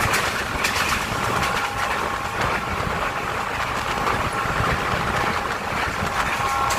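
Train running steadily along the track, a continuous rumble and rush of wheels and motion, with a faint steady whine coming in during the second half.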